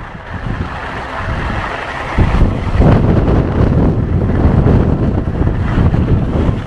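Strong gale-force wind buffeting the microphone in a steady roar, gusting louder about two seconds in.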